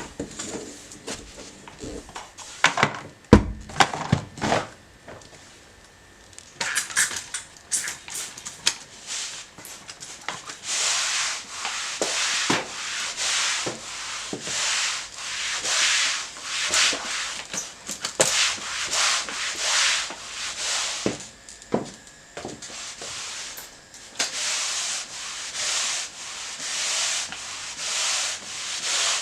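A mop pushed back and forth across a hard kitchen floor in repeated swishing strokes, each about a second long. A few sharp knocks come before the strokes begin.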